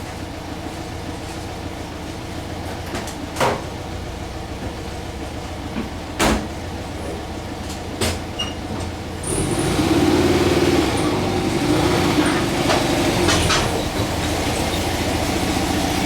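Air-cooled flat-four engine of a VW Type 2 bus running as the bus is pulled in, with a few sharp clicks; it gets louder about nine seconds in. The bus is driving on a failing transaxle that the owner believes has lost its main bearing.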